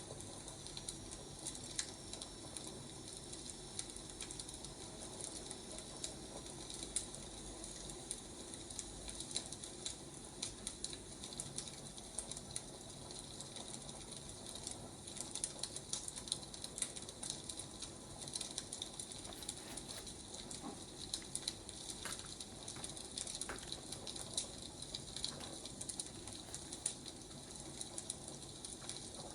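Wood fire crackling: a steady soft hiss with frequent small, irregular crackles and pops.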